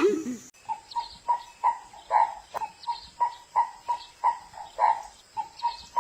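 A bird calling in a fast, regular series of short notes, about three a second, after a brief lower call that cuts off about half a second in.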